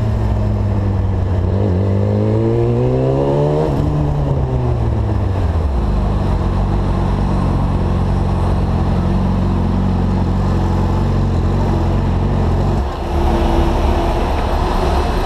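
Sport bike engine accelerating, its note rising for a couple of seconds, then falling back and running steadily. Around 13 seconds in it drops to a lower, steady idle.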